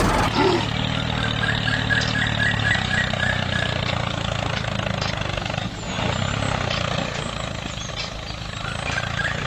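A small motor or engine running steadily, with a quick run of high chirps about two seconds in and again near the end.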